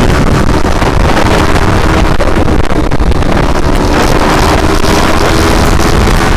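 Motorcycle engine running while riding, with heavy wind noise on the microphone. The engine note rises slightly near the end.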